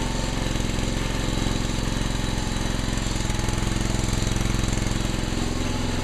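Gravely tractor engine running steadily with a rapid chugging beat; its note changes near the end.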